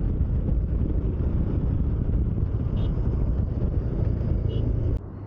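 Wind rushing over the microphone together with a Bajaj Dominar motorcycle running at speed on the road, a steady dense rumble. It stops suddenly about five seconds in.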